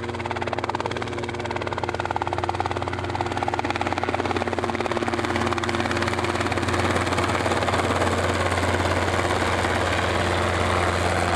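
Helicopter running with a fast, steady rotor pulse, growing slowly louder.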